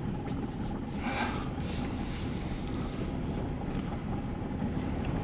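Vehicle engine idling steadily, with a brief hiss about a second in.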